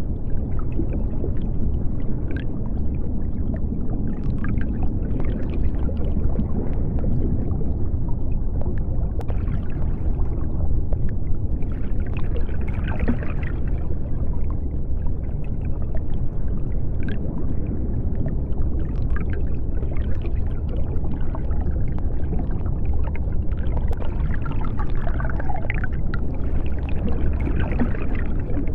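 Underwater ambience of the deep sea: a steady low rumble with faint bubbling and scattered small clicks.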